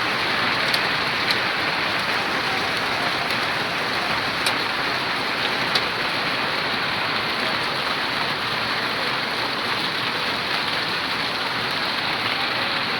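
Heavy rain pouring steadily onto the ground and surfaces, with a few sharp ticks of drops striking something hard.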